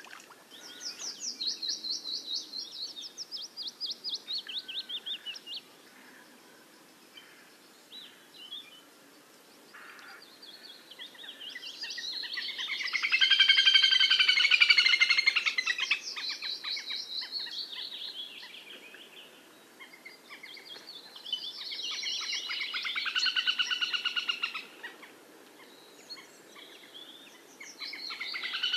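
Songbirds singing: several phrases of fast, trilled, high-pitched notes a few seconds long with pauses between them, the longest and loudest about halfway through.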